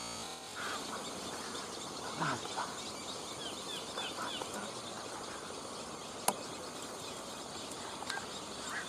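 Steady outdoor hiss, with short high bird chirps scattered through the first half and one sharp click about six seconds in.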